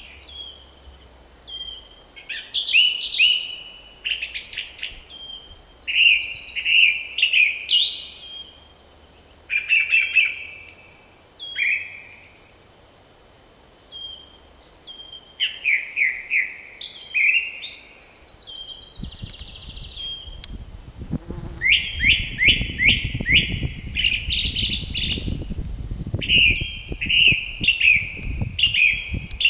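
Songbirds singing, short phrases of quick notes repeated again and again, some of them running down in pitch. About two-thirds of the way in, wind starts to buffet the microphone with a low, uneven rumble under the song.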